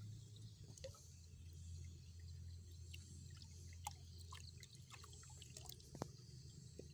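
Faint dripping and small ticks of a liquid fungicide (difenoconazole + azoxystrobin) being poured out to measure a dose, over a low steady hum.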